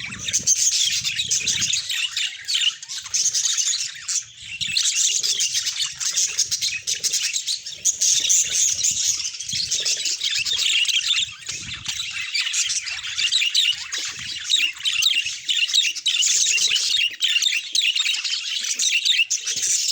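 Pet budgerigars chattering and warbling: a dense, continuous run of fast high chirps, squeaks and warbles with only brief pauses.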